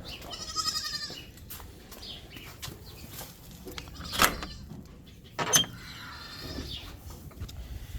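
A goat kid bleats briefly, a high wavering call, about half a second in, and more faintly around six seconds, amid scattered sharp knocks and clatter.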